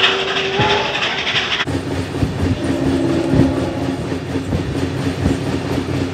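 Passenger train running along the track, heard from an open carriage window: wheels clicking and knocking over rail joints. A loud hissing rush in the first second and a half cuts off abruptly, giving way to a steady low hum under the clicks.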